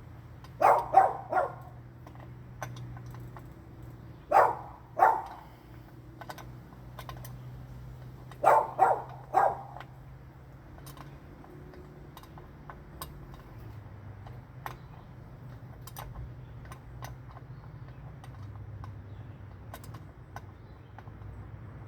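A dog barking in three short bouts: about four barks around a second in, two at about four to five seconds, and three more at eight to nine seconds. Light scattered clicks of hand-tool work sound over a low steady hum throughout.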